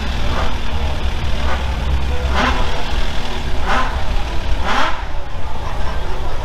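Car engines running with a steady low rumble, and a few short, sharp noise bursts about a second apart.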